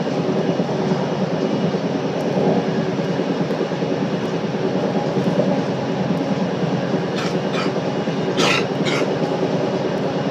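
Scarborough RT ICTS Mark I train running along the track: a steady rumble of wheels on rail with an even hum from its linear induction motors. A few short, sharp noisy bursts come from the train about seven to nine seconds in.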